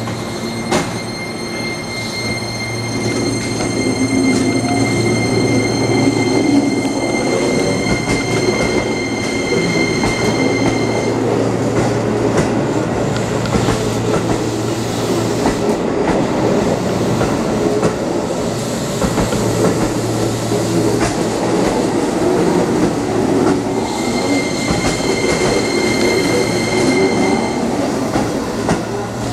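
Keihan electric train running along the platform track: steady wheel and rail rumble with scattered clicks. A steady high whine sounds for about ten seconds near the start and again for a few seconds near the end, under a low steady hum.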